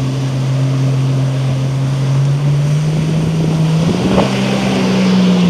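Sea-Doo RXP-255 jet ski engine, a supercharged Rotax four-stroke, running steadily. Its pitch climbs gradually from about halfway in as it speeds up.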